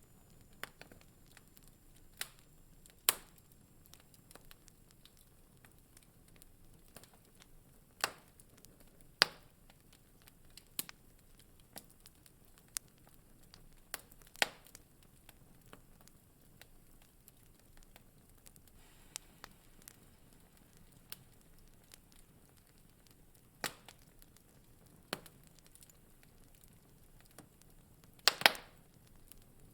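Wood fire in a fireplace crackling: sharp, scattered pops and snaps every second or so over a faint low hiss, with a quick cluster of louder pops near the end.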